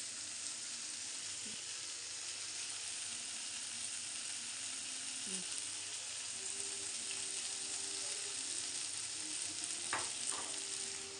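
Chicken pieces frying in a kadai over a gas flame: a steady sizzle.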